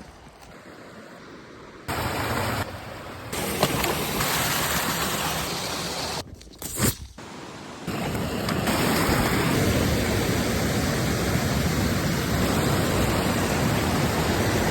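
Fast-flowing river water rushing near a waterfall: a dense, steady noise. It comes in abruptly about two seconds in, drops out briefly midway and returns louder.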